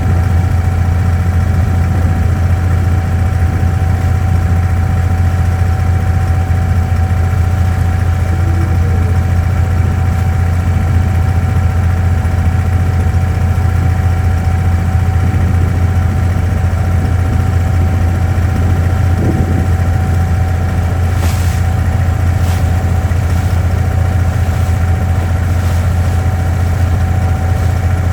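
Abra water taxi's diesel engine running steadily: a loud, even low drone with a steady whine above it. A few faint clicks come about three quarters of the way through.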